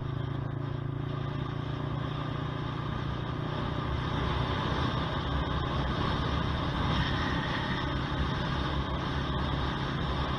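Honda CBR125R's single-cylinder four-stroke engine running on the move, growing louder and noisier about four seconds in.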